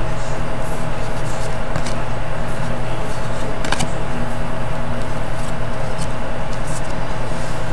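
Steady background hum and hiss at an even level, with a few faint clicks.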